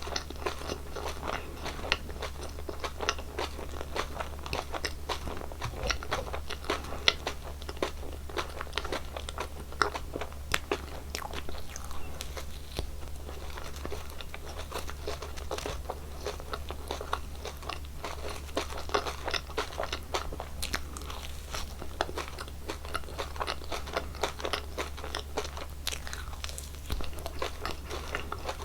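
Close-miked chewing and biting of gummy jelly candies, with a steady stream of sticky, crackly mouth sounds and small crunches.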